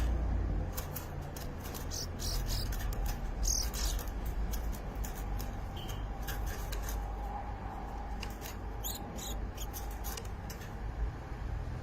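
Scattered short, high bird chirps and squeaks, a few of them gliding in pitch, over a steady low rumble.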